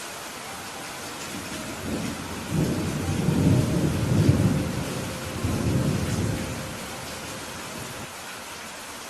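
Steady rainfall with a roll of thunder rumbling low, building from about a second and a half in, swelling twice and dying away by about seven seconds in.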